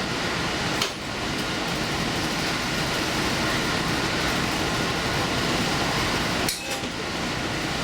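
Steady running noise of the Furano Lavender Express, a diesel limited-express train, rolling along the line as heard from aboard. Two short sharp knocks cut through it, about a second in and again near the end.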